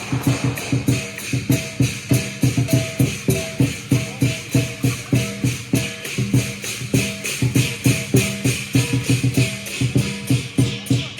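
Lion dance percussion band playing: a big drum with clashing cymbals in a fast, steady rhythm of about four strokes a second.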